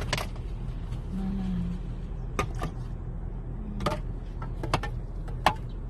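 Steady low hum of a car cabin on a drive, with a few sharp clicks or taps scattered through it.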